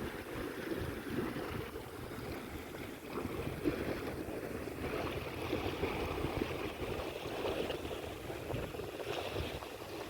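Steady seaside noise of waves and wind.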